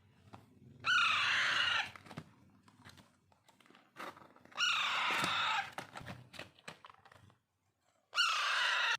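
Alexandrine parakeet chicks giving harsh begging screeches during hand-feeding: three calls, each about a second long.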